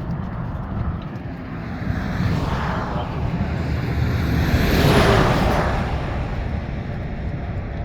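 A vehicle passing by, its noise swelling to a peak about five seconds in and then fading, over a steady low rumble of wind and distant traffic.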